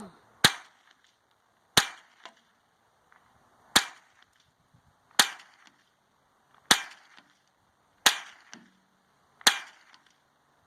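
A string of seven single gunshots from a firearm fired at bottle targets, one about every one and a half seconds, each a sharp crack with a short trailing echo.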